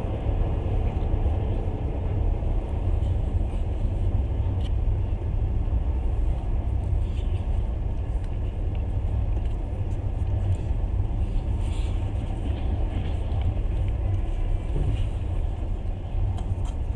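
Passenger train running steadily at speed: a continuous low rumble of wheels on rails and the moving carriage.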